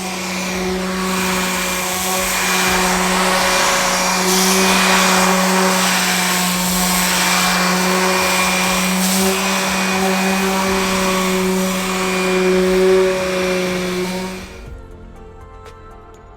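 A small high-speed motor running at a steady speed, a constant hum over hiss, that cuts off abruptly about two seconds before the end; quieter music follows.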